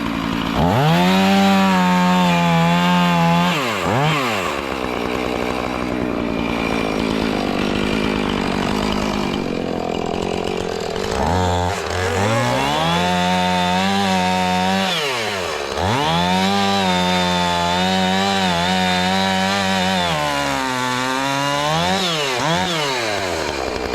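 Chainsaw making the back cut of a tree-felling notch: the engine revs up to full throttle about a second in and holds, eases off and runs rougher under load in the wood, then is throttled up and held again twice, with brief dips in speed between.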